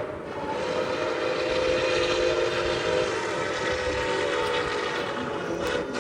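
Locomotive horn sounding a long, steady chord of several notes over the noise of a moving train. The horn cuts off near the end.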